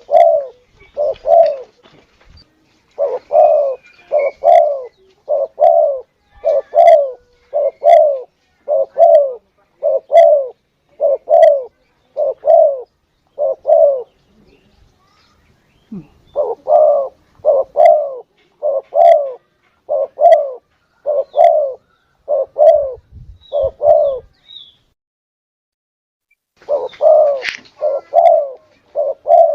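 Spotted dove (tekukur) cooing: a long series of short, low coos at about two a second, breaking off twice for a couple of seconds. This is a dove-lure call, played to draw in spotted doves.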